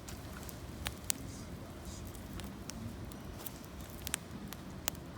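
Campfire of gathered branches and leaves crackling, with irregular sharp pops, the strongest about a second in and near the end, over a low steady rumble.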